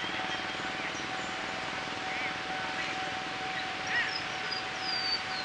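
Birds chirping, short arched calls about two and four seconds in and a run of high falling whistles near the end, over a steady background hiss and a faint steady tone.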